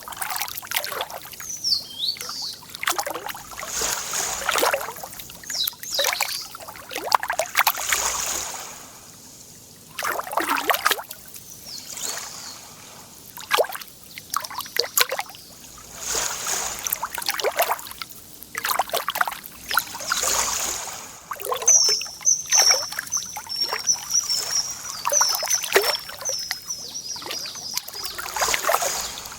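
Lake water lapping and splashing in irregular washes every second or two. A small songbird chirps briefly now and then, and gives a long, rapid, high twittering song in the last several seconds.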